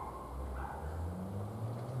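A vehicle engine's low hum, rising steadily in pitch as it speeds up, with a brief faint chirp about half a second in.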